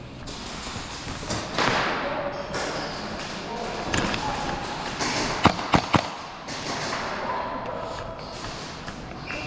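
Three sharp airsoft gun shots in quick succession about halfway through, over a noisy hubbub of movement and faint voices.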